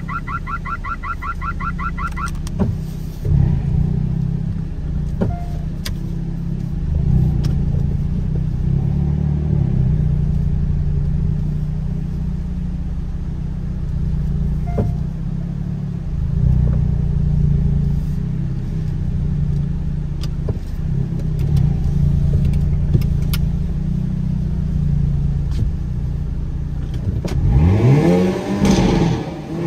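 Hyundai Kona N's turbocharged four-cylinder engine running low and steady while the car creeps in and sits parked, with a few sharp pops scattered through. One quick rev near the end, its pitch rising and then falling. A fast run of electronic beeps, like a parking sensor warning, sounds in the first two seconds.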